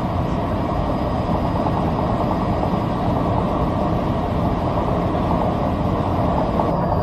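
Steady aircraft engine drone, a dense even rumble with no breaks or changes.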